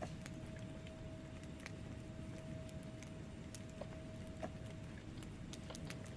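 Wood fire burning in a fireplace: irregular crackles and small pops from the logs over a low steady rumble of the flames, with one sharper pop about four and a half seconds in. A faint steady hum runs underneath.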